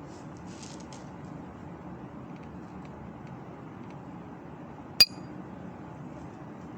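One sharp clink about five seconds in, a hard object striking a glass or ceramic dish with a brief ringing tone, over a steady low hiss. A few faint crackles come about half a second to a second in.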